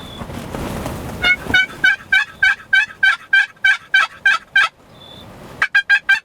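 Wind buffeting the microphone, then a long run of loud, evenly spaced turkey yelps, about four a second. Near the end comes a quicker cluster of sharper notes.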